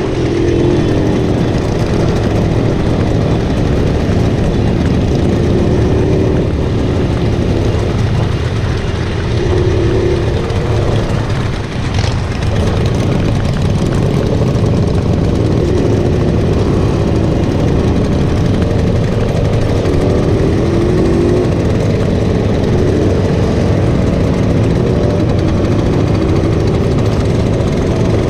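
Small motorcycle engine running under way, its pitch rising and falling with the throttle over a steady low rumble.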